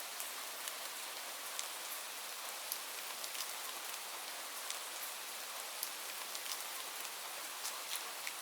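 Steady rain falling, a constant hiss with many individual drops ticking sharply against hard surfaces.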